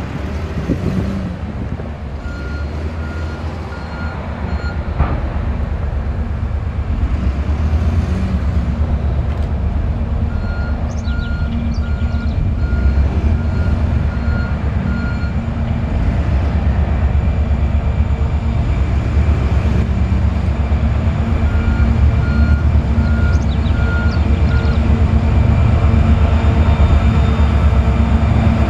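EMD SD40 diesel freight locomotives running with a heavy, steady rumble that grows gradually louder as the train approaches. A repeated electronic beeping comes and goes three times over it.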